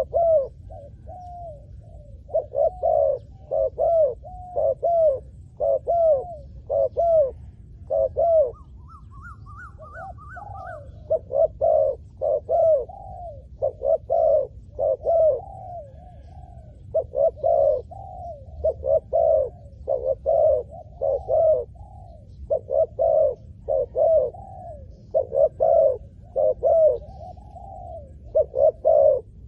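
Spotted dove cooing over and over: a long run of short, arched coos in quick groups with brief pauses between phrases. A faint rising whistle-like note sounds once, about a third of the way through.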